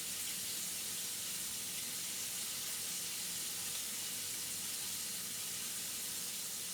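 Food frying in a pan: a steady, even sizzle that holds unchanged throughout.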